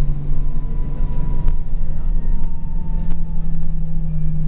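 Scania L94UB bus's diesel engine running with a steady low drone, and a faint whine from the ZF automatic gearbox that slowly falls in pitch through the first couple of seconds.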